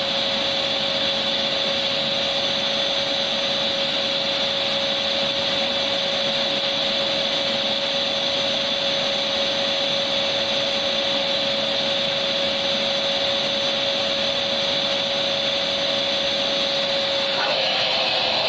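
Vacuum cleaner running steadily, a constant rushing noise with a steady whine, used as white noise. About a second before the end the sound changes slightly in tone.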